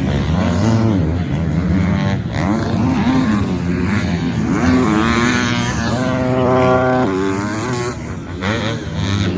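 Several 250cc four-stroke motocross bikes racing around the track, their engines revving up and dropping off repeatedly as riders work the throttle and shift. One bike holds a high, steady pitch for about a second past the middle.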